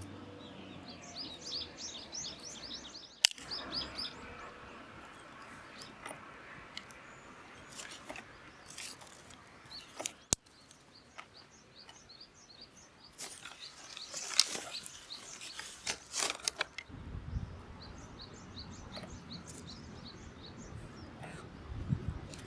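Small birds chirping in quick repeated series over outdoor background noise, with a sharp click about three seconds in and another about ten seconds in, and some low rumbling near the end.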